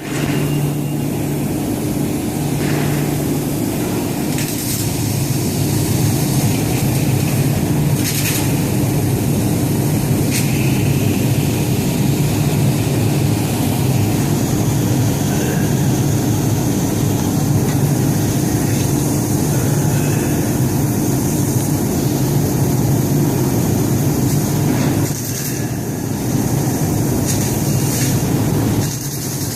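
Baykal BLSN 3000 W fiber laser cutting machine running while cutting 10 mm plate: a steady hum with a rushing noise, dipping briefly twice near the end.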